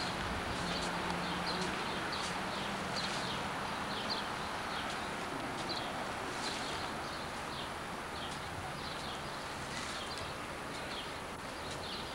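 Small birds chirping over a steady outdoor background hiss. The chirps are short, high and slide downward, and they repeat irregularly several times a second.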